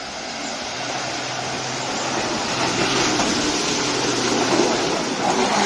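Heavy truck running under load with a rushing noise that builds over the first few seconds and then holds loud.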